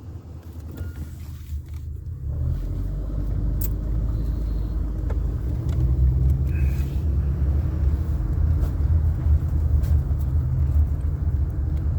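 Low road and engine rumble of a moving car, heard from inside the cabin, growing louder about two seconds in and then holding steady.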